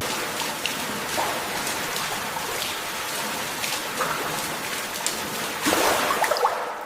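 Water splashing and spattering as a steady rush with scattered small drops, swelling louder near the end.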